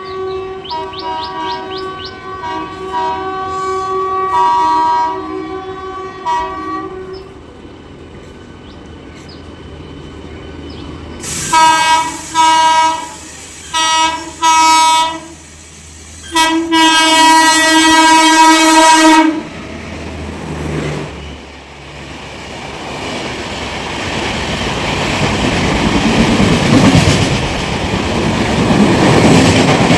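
Indian Railways express train sounding its horn as it approaches a station. A fainter horn comes first, then three short loud blasts and a long one. The train's running noise and wheel clatter then build steadily as it comes through at speed.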